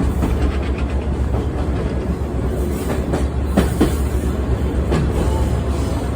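Sightseeing trolley train running on its rails with a steady low rumble and the clack of wheels over rail joints, a few sharper knocks in the second half.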